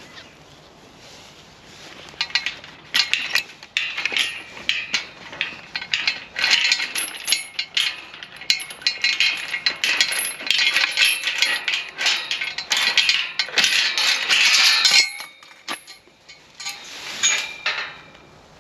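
Metallic clinking and rattling, many quick irregular clicks and clatters, starting about two seconds in and stopping abruptly about fifteen seconds in, with a few more clinks near the end.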